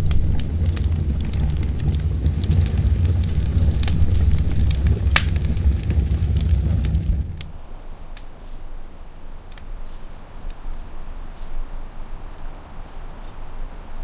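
Heavy wind buffeting the microphone with a low rumble while a campfire crackles. About halfway through, the rumble stops abruptly and a steady high-pitched tone takes over, with a few faint crackles.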